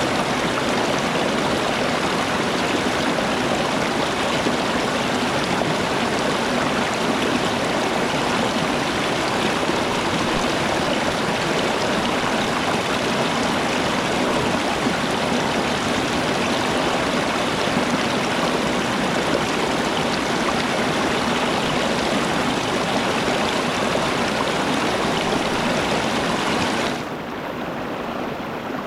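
Steady rush of flowing water, a stream running over rocks. About 27 seconds in it turns quieter and duller.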